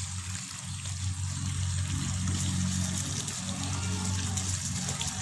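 Chicken pieces sizzling in hot oil in a karahi while a wooden spatula stirs them, with a steady low hum underneath.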